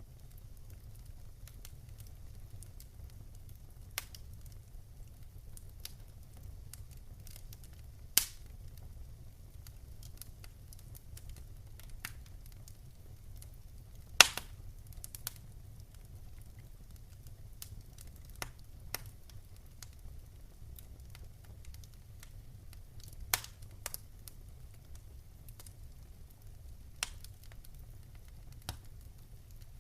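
Wood fire crackling: a steady low rumble with sparse sharp pops and snaps, the loudest about eight and fourteen seconds in.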